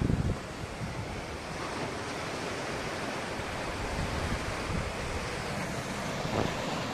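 Sea surf: waves breaking and washing ashore in a steady rush, with wind buffeting the microphone in low rumbling gusts, strongest right at the start.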